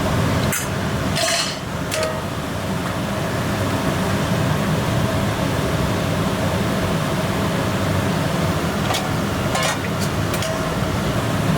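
Steady low rumbling hum of a busy commercial kitchen, with a short hiss about a second in and a few sharp clinks of utensils or dishes, two of them close together near the end.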